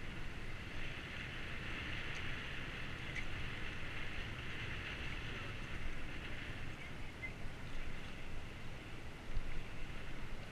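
Steady rumble and hiss of a bicycle ride on a camera microphone: wind and rolling tyre noise, the hiss swelling in the first few seconds and easing later, with a few faint ticks near the end.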